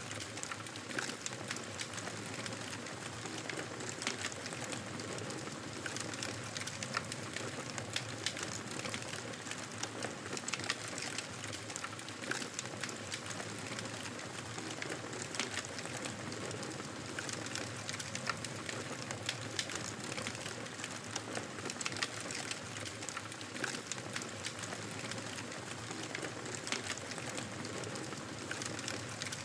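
Campfire burning: a steady hiss of flames with frequent, irregular sharp crackles and pops.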